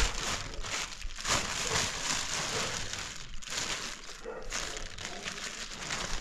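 Plastic sheeting crinkling and rustling in irregular bursts as it is handled.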